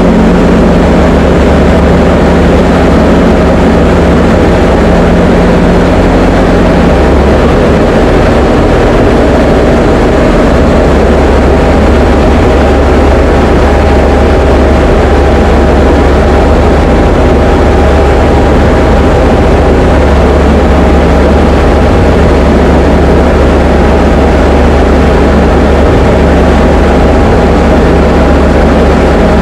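Diamond DA20 light aircraft's piston engine and propeller droning steadily, as heard inside the cockpit. The engine note shifts slightly about seven seconds in.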